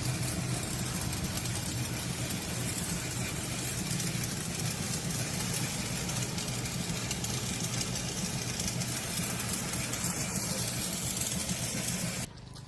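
Car engine idling steadily, cutting off abruptly near the end.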